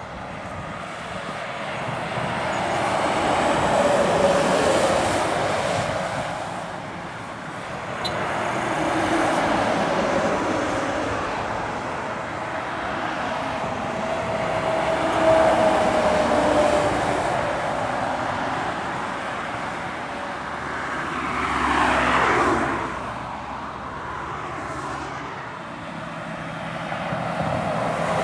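Heavy trucks with 500+ hp engines pulling up a steep climb under load, several passing one after another, each growing louder and fading. About three-quarters of the way through, one passes close with its pitch falling as it goes by.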